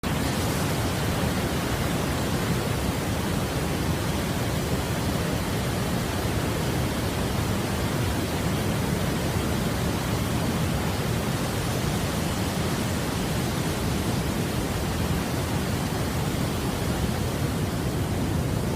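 Waterfall's falling water rushing in a steady, unbroken noise.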